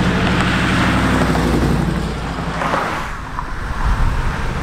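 Car engine running close by, steady for about two seconds and then fading, with traffic noise from the road.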